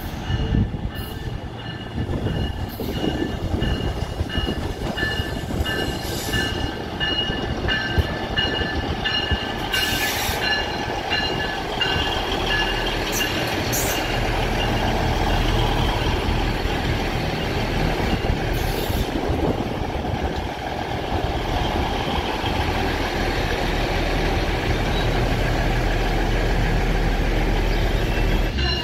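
UP Express diesel multiple-unit train running in along the far track: a steady rumble of engines and wheels on rail, with two high steady tones through the first half that fade out about halfway, and a deeper low rumble growing toward the end.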